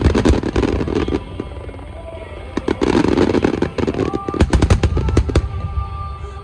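Aerial fireworks bursting in rapid clusters of sharp bangs and crackles, the heaviest bangs about four to five seconds in, over sustained music.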